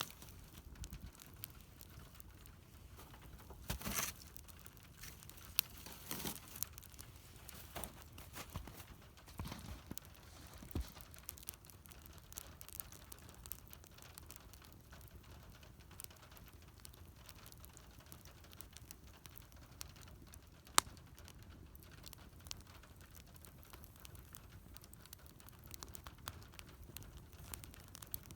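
Wood fire burning, with scattered crackles and sharp pops over a faint steady hiss; one pop about three quarters of the way through is the loudest.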